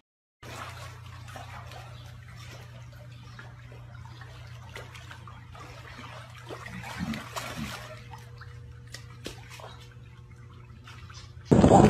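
Swimming-pool water splashing and lapping as a young lion swims and is held in the water, over a steady low hum.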